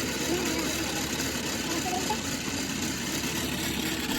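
A motor running steadily, with faint voices underneath.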